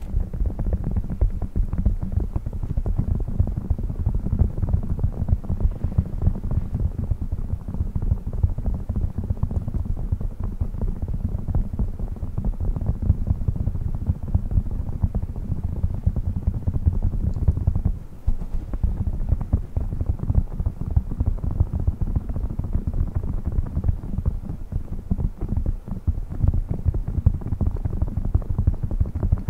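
Fingers tapping fast on new sponges: a dense, continuous patter of soft, muffled, low thuds, with a brief pause about 18 seconds in.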